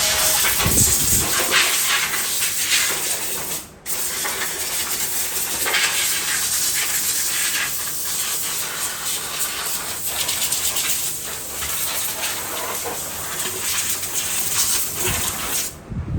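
Loud, steady hissing, like air or spray under pressure, broken off sharply for a moment about four seconds in.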